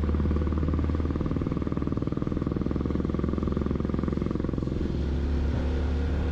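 Motorcycle engine running steadily under way, a dense, even pulsing low note.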